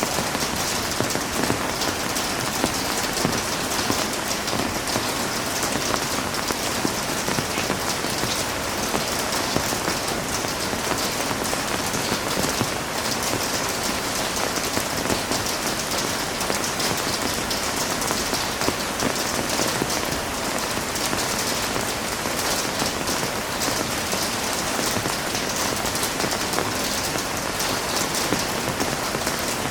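Heavy rain falling steadily on a surface, a dense even patter of drops.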